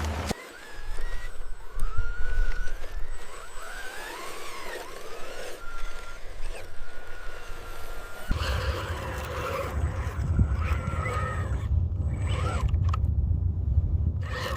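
Whine of an RC construction machine's electric motors and hydraulic pump, its pitch gliding up and down as the controls are worked; a low rumble joins about eight seconds in.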